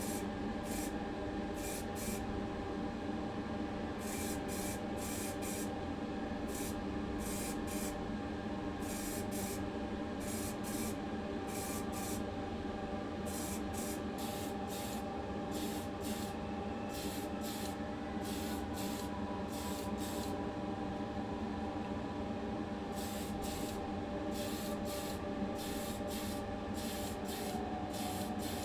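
Paint being sprayed onto a small diecast car body in many short hissing bursts, laying on primer and then the colour coat, over a steady hum.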